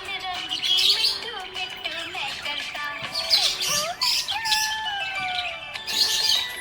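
Budgerigars chirping and chattering in repeated bursts of high twittering, with gliding whistled notes in between.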